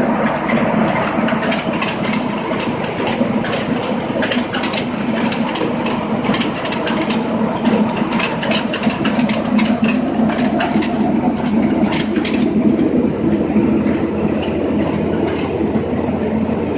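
Tractor engine running steadily, driving a mini rice mill (paddy husker), with many sharp ticks and rattles over the steady hum, thickest in the middle stretch.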